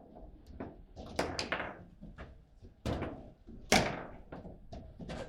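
Table football in play: the ball is struck by the figures on the rods and bangs against the table, a string of sharp knocks, the loudest nearly four seconds in.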